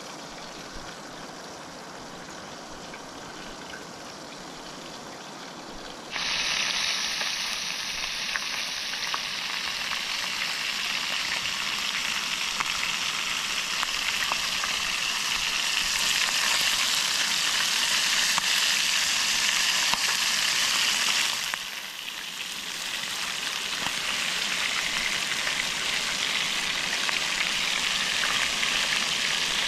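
River water running, then about six seconds in a loud, steady sizzle starts suddenly as pieces of jundiá catfish fry in hot oil in a pan. The sizzle dips briefly about two-thirds of the way through, then picks up again.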